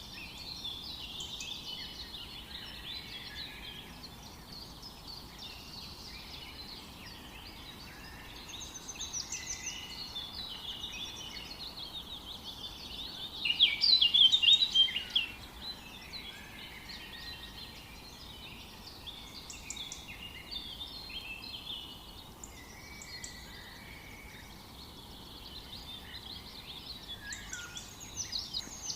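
Several birds singing and chirping over faint forest background hiss, with a louder burst of rapid, high trilling notes about halfway through.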